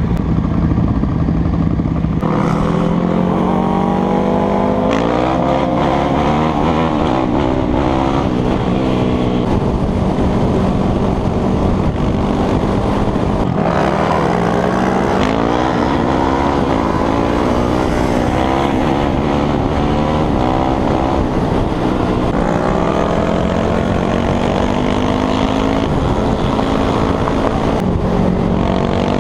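Motorcycle engine pulling hard through the gears, its pitch climbing and then dropping at each upshift, several times over.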